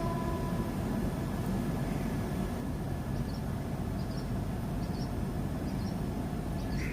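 Train running past with a steady low rumble, a faint thin whine held above it.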